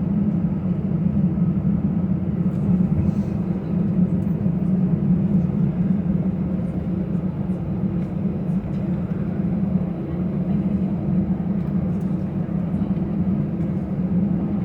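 Steady cabin drone inside an Airbus A319-114 taxiing after landing, its CFM56 engines idling under the air-conditioning hum. The drone sits low and is even throughout, with faint scattered clicks and rattles.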